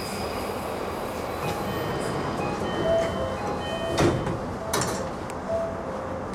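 E235 series Yamanote Line train running, heard from inside the car: steady running noise with short wheel squeals, and two sharp clunks about four and five seconds in.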